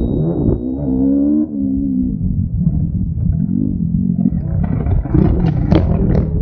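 Motocross bike engine revving, its pitch rising and falling again and again. The sound turns rougher and noisier in the second half.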